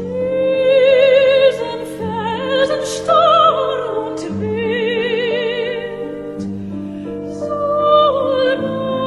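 Operatic singing: a voice holding long notes with wide vibrato over sustained low accompaniment.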